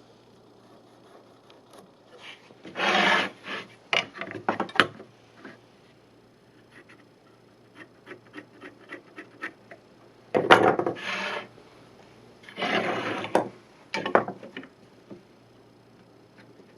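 Wood being rubbed or scraped by hand in short strokes of about a second, with sharp knocks and clicks between them.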